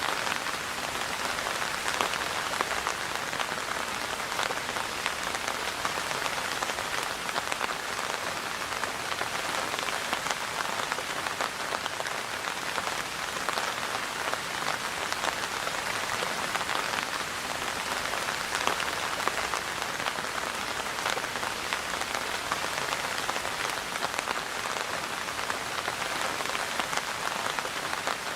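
Steady rain falling, an even patter of drops hitting a surface.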